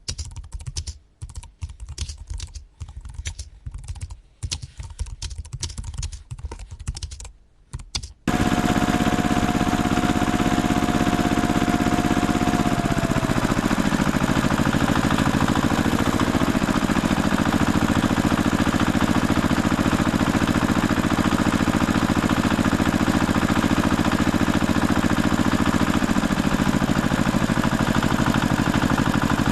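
Irregular light clicking and tapping, then an abrupt switch about eight seconds in to a steady tractor engine drone that drops in pitch a few seconds later and runs on evenly.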